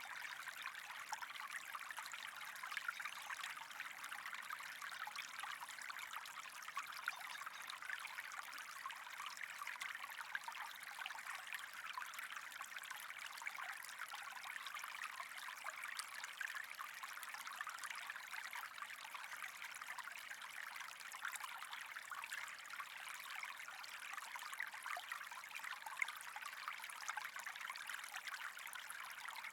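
Water trickling steadily, an even hiss with fine crackle and no breaks.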